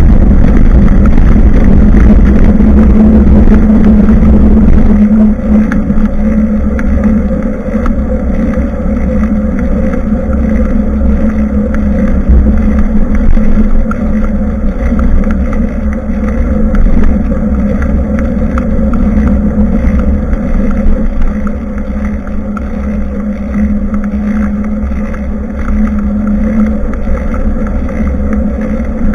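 Wind buffeting the microphone of a rear-facing action camera mounted on a moving bicycle, over steady riding rumble with a low hum. It is loudest for the first five seconds or so, then drops a little.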